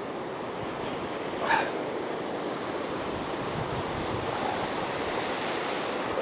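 Ocean surf breaking and washing on a sand beach, a steady rush, with one short sharp sound about a second and a half in.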